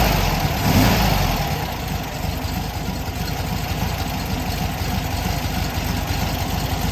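1967 Sundial's engine running after a cold start. It rises briefly once about a second in, then settles to a steady, even idle.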